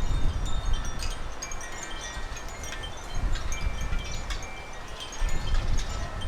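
Small garden birds chirping and twittering, with many short, high notes overlapping throughout. Wind rumbles on the microphone in gusts, strongest at the start and again near the end.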